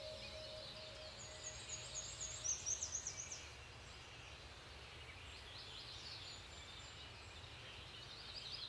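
Birds twittering in quick runs of short chirps over a steady outdoor hiss, loudest about two to three seconds in and again near the end.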